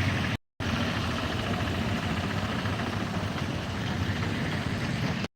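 Wind buffeting the microphone: a steady, uneven low rumble that drops out briefly about half a second in.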